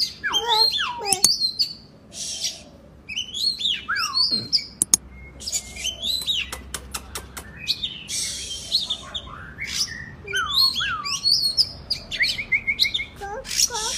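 Oriental magpie-robin (kacer) singing in full song: a busy run of whistled notes sliding up and down, mixed with harsh rasping notes and sharp clicks.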